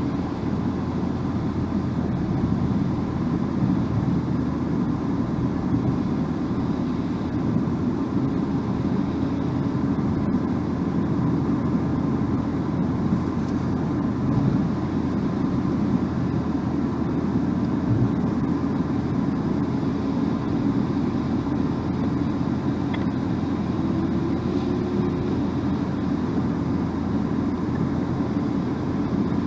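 Steady road noise of a car driving at speed: an even low rumble of tyres on asphalt with the engine underneath.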